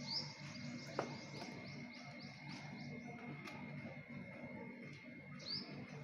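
A small bird chirping repeatedly, about three short high chirps a second for the first few seconds, with one more near the end, over a faint steady high tone. A sharp click about a second in is the loudest moment.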